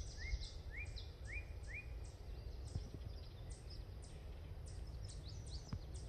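Small songbirds calling. A run of short rising chirps, about two a second, fades out after two seconds, while thinner high chirps go on throughout over a low steady rumble.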